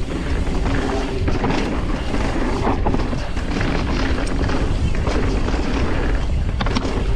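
Pivot Switchblade mountain bike riding fast down dirt single track: tyres rolling over the dirt, the bike rattling and knocking over bumps, and wind rumbling on the camera mic.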